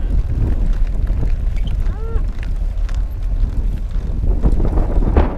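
Wind buffeting the microphone with a steady low rumble, and one short call about two seconds in that rises and falls in pitch.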